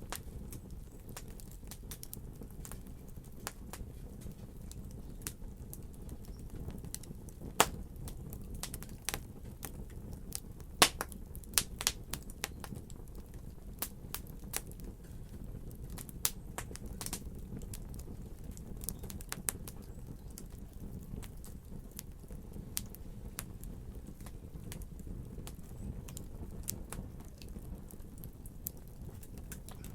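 Wood fire crackling: irregular sharp pops and snaps over a low, steady rumble of flames, with a few louder pops scattered through.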